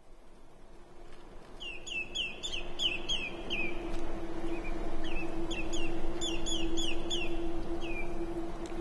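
A bird calling in two quick runs of short downward-sliding notes, about four to five a second, over a rushing hiss and a steady low hum that fade in.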